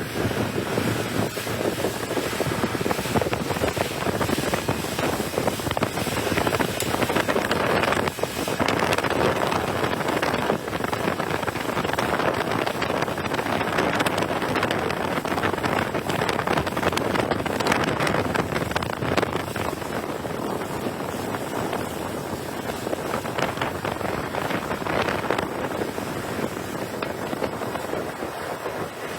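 Center console boat underway: heavy wind buffeting the microphone over the rush of water along the hull.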